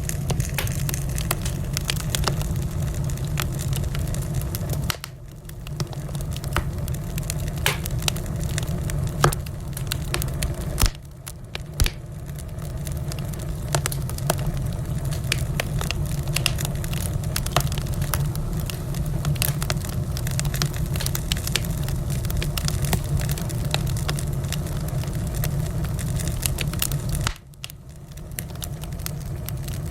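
Wood fire in a fireplace crackling, with frequent sharp pops and snaps over a steady low rumble. The sound drops away briefly three times, about five seconds in, around eleven seconds and near the end, then comes back.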